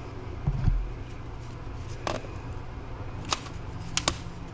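Plumbing work handling noises: a dull thump about half a second in, then a few sharp clicks and taps, two close together near the end, over a steady low hum.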